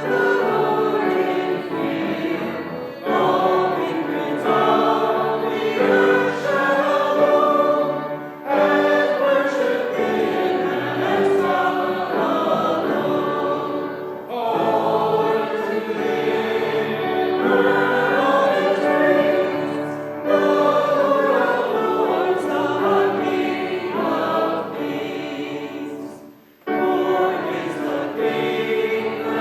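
Church congregation singing a hymn together, phrase by phrase, with short breaks between lines about every six seconds and a longer pause near the end.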